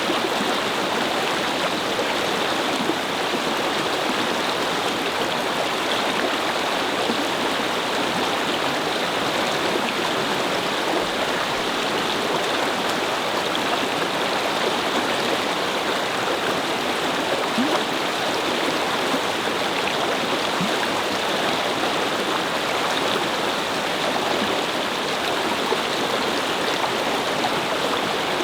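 A brook babbling and gurgling as it flows over stones, a steady, unbroken rush of water.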